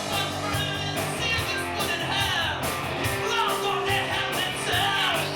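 Rock band playing with a singing voice over electric guitar and steady bass notes.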